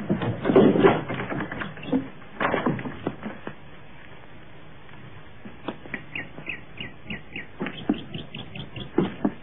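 A clatter of knocks and scuffs in the first three seconds, then a bird's short, high, downward chirps repeated several times a second, with a few soft thumps near the end.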